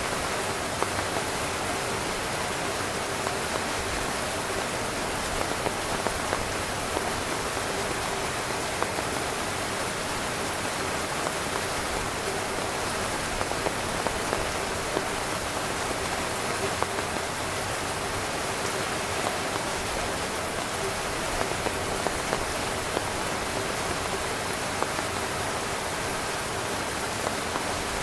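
Heavy, steady rain drumming on a tent's fabric, with many individual drops ticking sharply over a constant dense patter.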